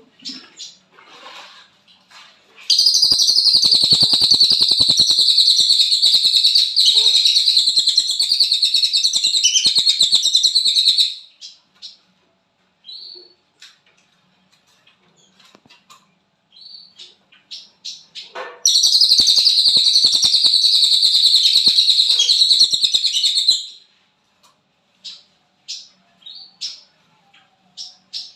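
A cililin songbird singing in the fast 'konslet' style: two long, loud, rapid buzzing trills, the first about eight seconds and the second about five, with short chirps between them and after.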